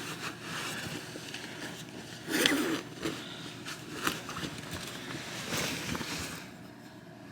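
Rustling and scattered light knocks of someone moving about and handling gear inside a pickup truck's camper shell, with one louder brief sound about two and a half seconds in.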